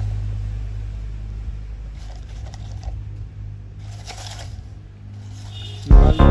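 Low, steady hum of a battery-powered ride-on toy tractor's electric drive, slowly fading. Loud music starts near the end.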